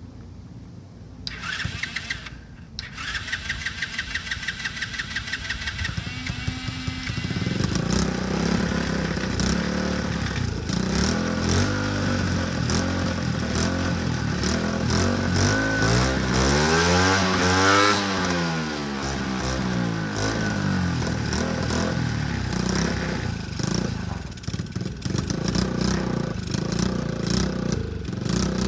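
Small 70cc ATV engine on a motorised Schwinn Stingray bicycle starting about a second in and running with an even pulse. About seven seconds in it picks up and gets much louder. Around the middle its pitch rises and falls once, and then it runs steadily.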